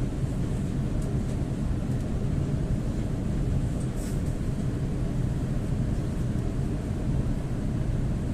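Steady low rumble of an ЭП2Д electric train running, heard from inside the passenger car, with a few faint light clicks about one and four seconds in.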